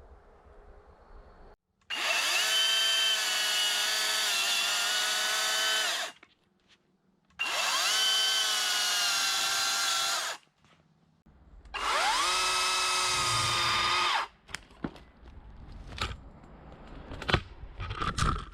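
Kress KC300 60-volt brushless battery chainsaw run in three bursts of about three to four seconds each. Its whine rises as the chain spins up, then holds steady, dipping briefly in the first burst. A scatter of sharp knocks follows the last burst near the end.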